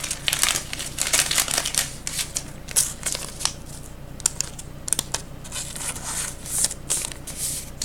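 Trading cards and their plastic sleeves or holders being handled: a string of short, uneven crinkles and rustles.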